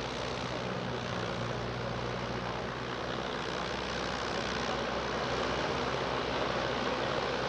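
Light aircraft engine running steadily, getting slowly a little louder.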